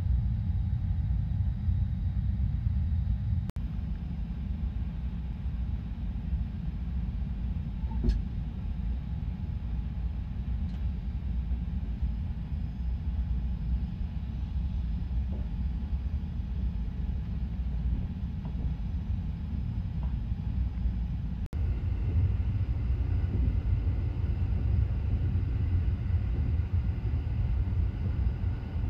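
Steady low rumble inside the cabin of the Sunrise Seto, a 285 series electric sleeper train, as it runs, with a few faint clicks. The rumble breaks off briefly twice and is a little louder in the last part.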